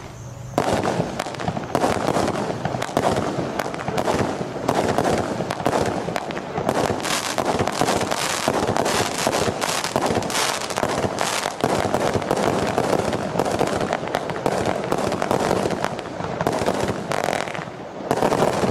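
Tai Pan Jitterbug 40-shot consumer firework cake firing shot after shot in quick succession: tube launches, loud bangs and crackling. The bangs start about half a second in.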